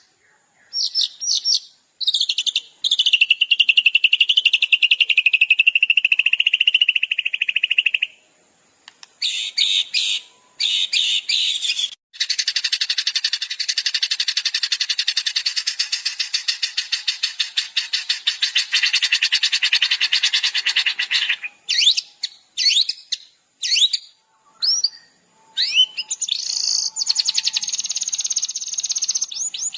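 Recorded songbird song of the kind used to tutor caged birds: bursts of high chirps and fast trills. A long, very rapid trill runs through the middle, and the phrases start and stop abruptly.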